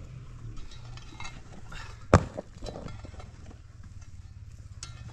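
A sharp knock or clink about two seconds in and a lighter one near the end, with scattered small clinks over a low steady rumble.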